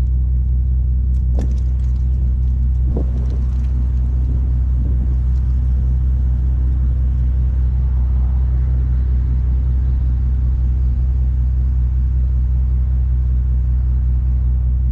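2013 Bentley Speed's twin-turbo W12 idling steadily after a cold start, with a few light clicks in the first few seconds.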